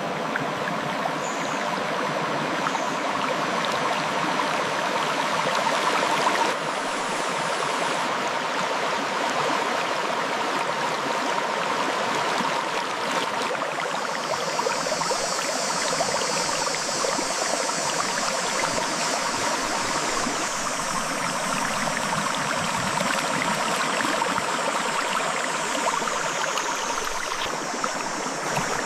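Clear river water flowing and gurgling over rocks, a steady rush. A higher hiss joins about halfway through and fades near the end.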